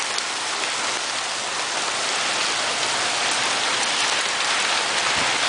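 Torrential downpour of heavy rain: a dense, steady hiss of falling rain that grows slightly louder as the rain picks up.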